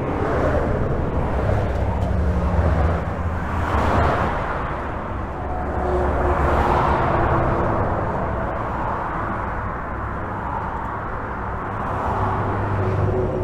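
Highway traffic heard from beneath a bridge: a constant rumble of tyres and engines, with several vehicles swelling past one after another.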